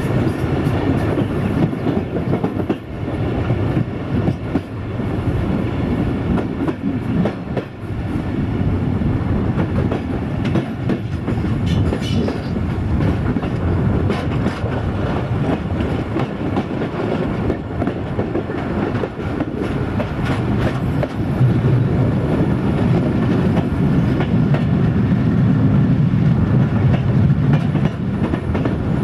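ADH11 diesel railcar on the move, heard from inside: the wheels clatter rhythmically over rail joints over a steady running rumble, which grows louder in the last several seconds.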